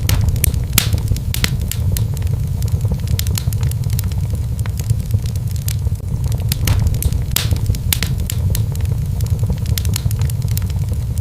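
Fireplace fire crackling: frequent sharp, irregular pops and snaps over a steady low rumble of the burning flames.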